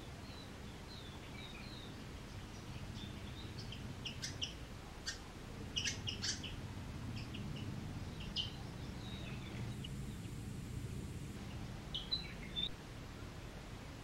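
Small birds chirping: a run of short, high chirps, with sharper, louder calls clustered about four to six seconds in and again near the end. A faint low hum sits underneath through the middle.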